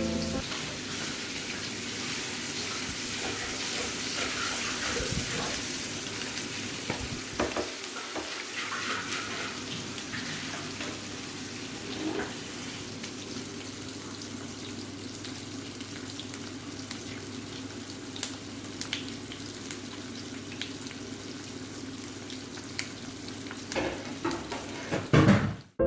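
Sardine roe frying in hot oil in a pan: a steady sizzle with scattered sharp pops as the eggs burst and spatter, and a few louder knocks, the loudest just before the end.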